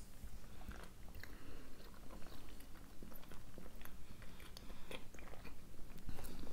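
Close-up chewing of hard-boiled eggs dipped in garlic mayonnaise sauce, with many small mouth clicks scattered throughout.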